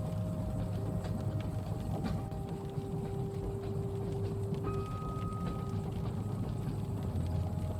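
Rainy train-carriage ambience: the steady low rumble of a train running, with scattered faint clicks and knocks and a few thin held tones that come and go, a higher one briefly about five seconds in.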